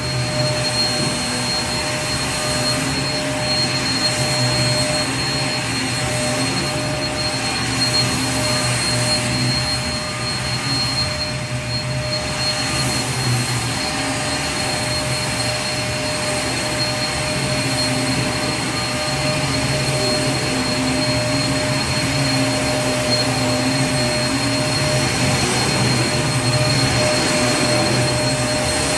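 Vacuum cleaner running steadily: a continuous rushing noise with a steady hum and a high whine held over it, dipping slightly for a moment about a third of the way through.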